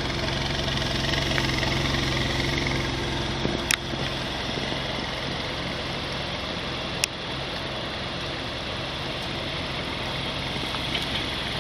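2013 Nissan Juke Nismo's 1.6-litre turbocharged four-cylinder idling, a steady low hum that fades about three and a half seconds in. Two sharp clicks sound during the idle.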